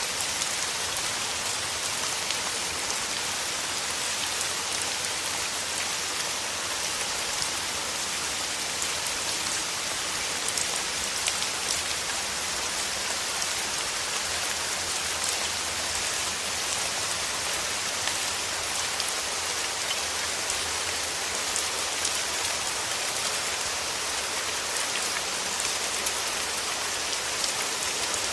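Steady rain falling on rose petals and leaves, an even hiss of rainfall with many individual drops ticking close by.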